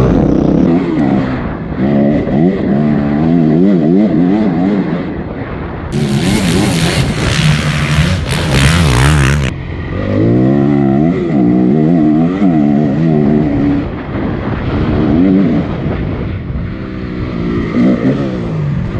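Honda CRF250 dirt bike's single-cylinder four-stroke engine, heard on board, revving up and dropping back over and over as the throttle is worked and gears change. A loud rushing noise covers it for about three seconds in the middle.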